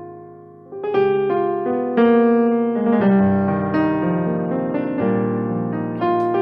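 Electric piano playing a sequence of sustained chords, each struck and left to fade, with a new chord about every second.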